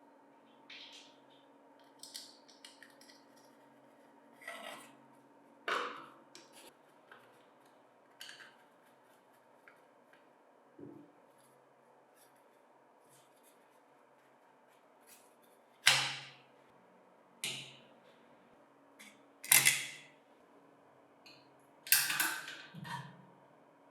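Scattered clicks, clinks and knocks of small metal parts and hand tools being handled and set down, with a few louder knocks in the second half over a faint steady hum.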